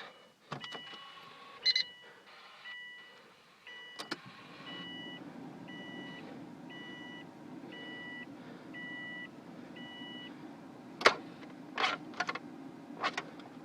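Car dashboard warning chime sounding an even string of two-tone beeps, a little over one a second, stopping about ten seconds in, before the engine is started. A low steady hum comes on about four seconds in, and a few sharp clicks follow near the end.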